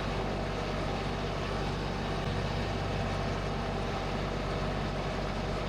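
Compact tractor engine running steadily at a constant pitch.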